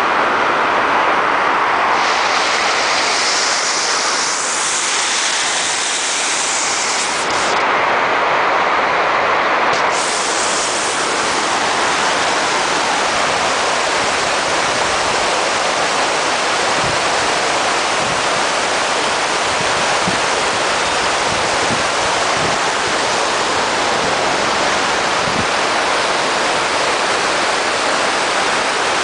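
Waterfall: a steady, loud rush of falling water, its tone shifting a little in the first ten seconds and then holding even.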